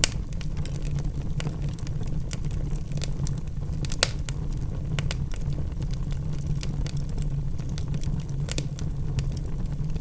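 Wood fire burning in a fireplace: constant small crackles and snaps over a steady low rumble of flame, with a few sharper pops of the logs, the loudest about four seconds in.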